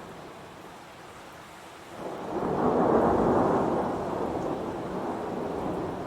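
Steady heavy rain, then about two seconds in a roll of thunder swells up, peaks and slowly dies away under the rain.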